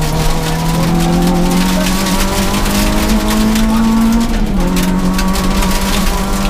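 Peugeot 106 S16 rally car's four-cylinder engine heard from inside the cockpit, pulling hard with the revs climbing steadily. A little past four seconds an upshift drops the pitch, and then it pulls again.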